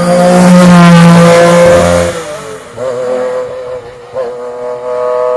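A Metro 6R4 rally car's V6 engine at full throttle. It is loudest for the first two seconds as it passes close by, then pulls away with several quick gear changes heard as brief dips and jumps in pitch.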